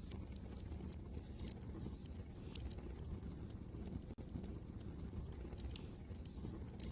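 Wood fire crackling in a fireplace, with irregular sharp pops and snaps, over a low steady rumble of wind.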